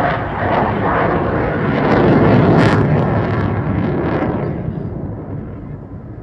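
Eurofighter Typhoon jet passing overhead with a loud roar that peaks a couple of seconds in and fades away after about four and a half seconds.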